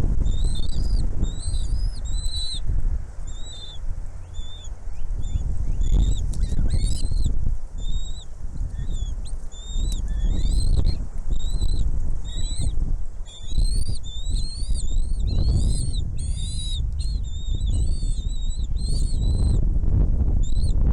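Small birds chirping: short, arched, high notes repeated several times a second throughout, thickest around the middle, over a steady low rumble.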